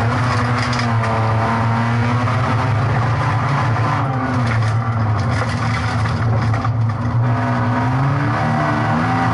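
Folkrace car's engine heard from inside the stripped, caged cabin, running hard. The pitch sags about halfway through and climbs again near the end as the driver comes off and back onto the throttle, with tyre and gravel noise underneath.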